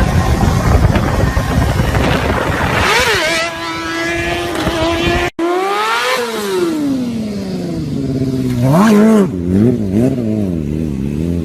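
Motorcycle engines revving in quick succession. The engine pitch climbs and drops as if shifting up through the gears, then cuts off abruptly about five seconds in. After that it falls away, and near the end it swings up and down in quick throttle blips.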